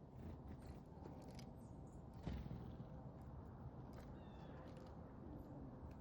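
Faint outdoor ambience: a low steady rumble with scattered small clicks, a sharper knock a little after two seconds in, and a short, high two-part chirp from a small songbird about four seconds in.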